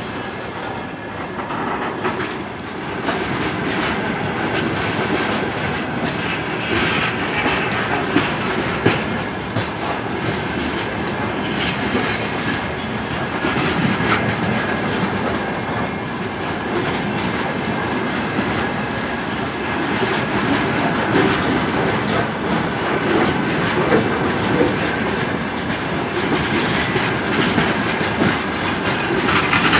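A freight train of open gondola wagons rolls past at steady speed. Its wheels run along the track with a continuous clickety-clack over the rail joints.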